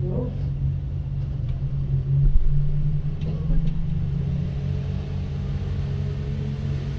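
Super stock diesel pulling tractor engine running with a steady low drone, briefly louder a little after two seconds in.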